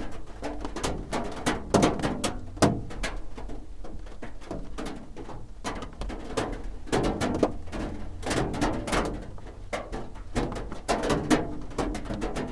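Raindrops drumming on a roof, heard from underneath: a dense, irregular patter of single sharp knocks over a steady low hum.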